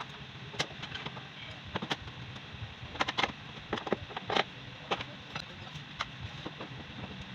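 Scattered light clicks and knocks of small hard objects, irregular and a few at a time, over a steady hiss; a small cluster falls about three to four and a half seconds in.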